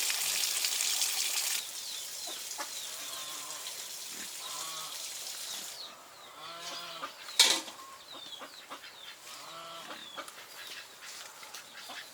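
Running water stops about a second and a half in. Chickens cluck after that, with many short high peeps and one sharp knock about seven seconds in.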